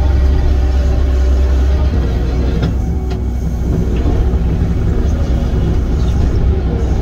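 Diesel engine of heavy earthmoving equipment running steadily under work, a loud, even low rumble.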